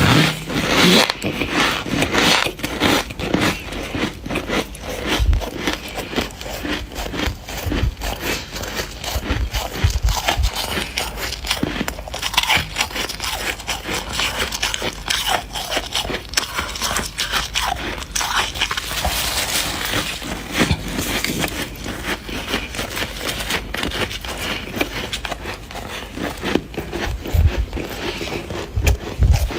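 Dry, cloudy deep-freezer frost being bitten, chewed and crushed by hand: a continuous run of squeaky crunching and crackling, with a few low thumps.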